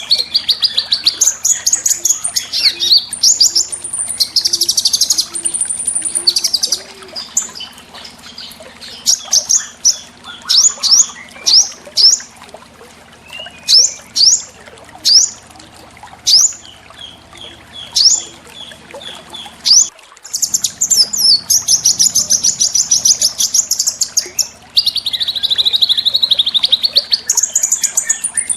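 Small songbirds singing: dense, rapid high-pitched trills, then a run of separate sharp rising notes about one a second, and after a break about twenty seconds in, fast trills again.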